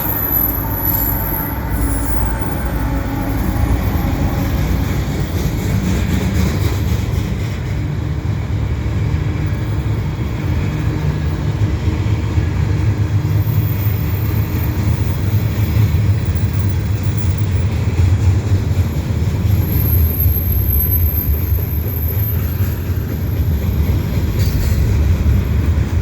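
Freight cars of a mixed freight train rolling past, with a steady rumble of wheels on the rails. A faint high wheel squeal comes near the start and again about twenty seconds in.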